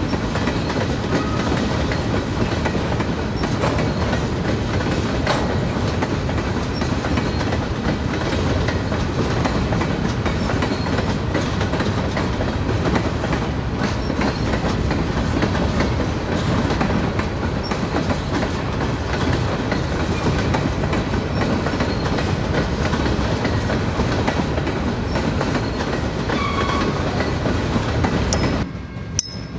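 Freight train cars rolling past, with a steady clickety-clack of wheels over the rail joints. The sound drops away abruptly near the end.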